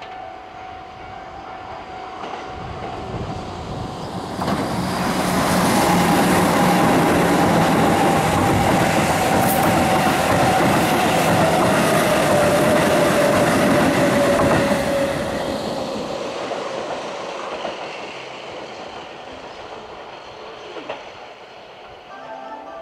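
Keihan 8000 series electric train running through the station at speed: the sound of wheels on rail builds up, stays loud for about ten seconds with a whine that slowly falls in pitch, then fades away.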